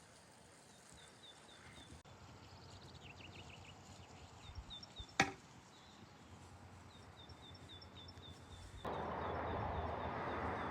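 One sharp knock, like a wooden strike, about halfway through, over small birds chirping in short repeated calls. Near the end the background jumps suddenly to a louder, steady rushing noise.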